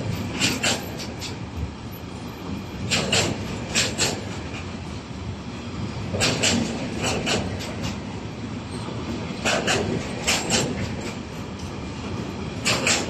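Container flat wagons of a freight train rolling slowly past over a steady rumble. Every three seconds or so their wheels clack over a rail joint in a quick cluster of clicks.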